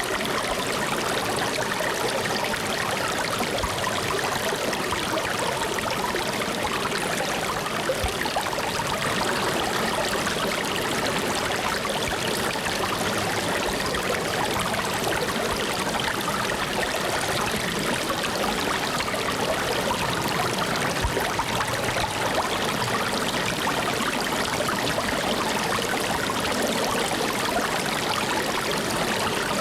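Flowing water running steadily, a continuous even rush with no breaks or changes.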